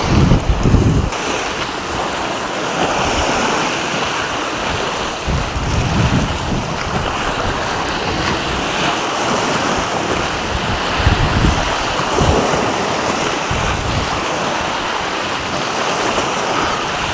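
Sea waves washing steadily, with wind buffeting the microphone in low rumbling gusts, about four times.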